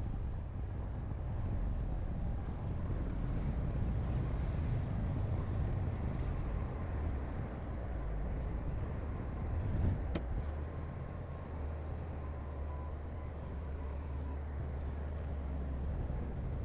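Diesel engine of heavy earthmoving machinery running under steady load, with a single sharp knock about ten seconds in. After the knock the engine settles into a more even low drone.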